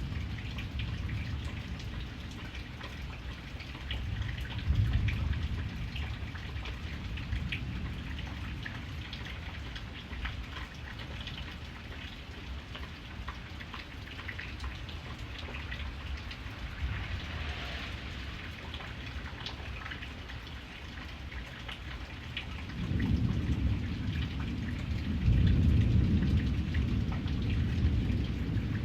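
Steady rain falling, with the patter of individual drops. A deep low rumble swells briefly about five seconds in, then builds again about 23 seconds in and carries on, the loudest part.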